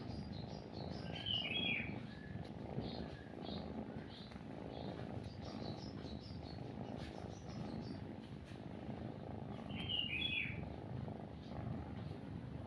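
Cat purring steadily, with small birds chirping in the background. Two louder bird calls stand out, one early and one near the end.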